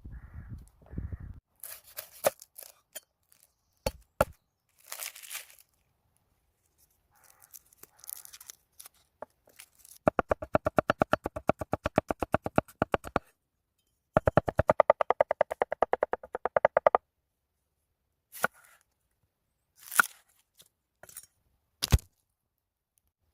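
Rapid knife chopping on a cutting board: two runs of fast, even strokes, about eleven a second, each lasting about three seconds, between scattered single taps and knocks.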